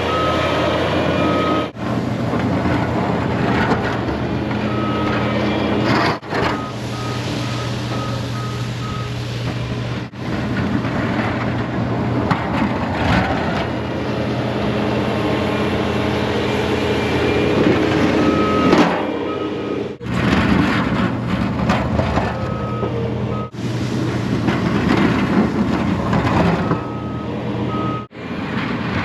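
Snow-removal vehicle's backup alarm beeping in several short runs, about two even beeps a second, over a steadily running engine. The sound cuts off abruptly several times.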